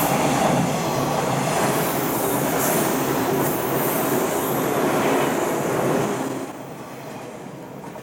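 JR 185-series electric train passing close by: a loud, steady rush of wheels on rail. It falls away sharply about six and a half seconds in.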